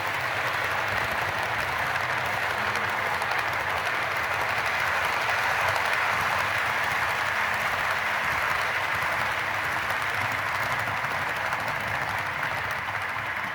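Model coal train running on the layout track: a steady rolling rattle of wheels on rail, swelling slightly midway.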